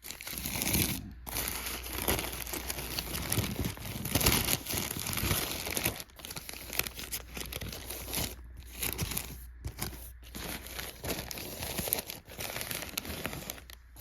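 Food wrapping crinkling and tearing as it is handled and opened, in irregular rustling spells with a few brief pauses.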